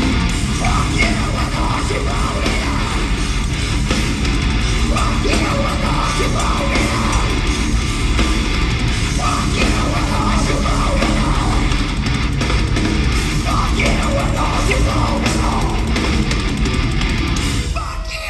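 A heavy metal band playing loud and live: distorted electric guitars, bass and drums, with shouted vocals at times. The music breaks off shortly before the end.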